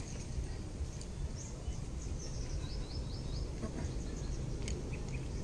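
Outdoor ambience: a steady low rumble with small birds chirping over it, including a quick run of four short chirps about three seconds in.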